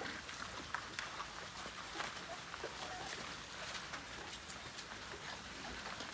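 French Bulldog puppies moving about, with scattered small clicks and taps throughout and a faint, brief squeak about two and a half seconds in.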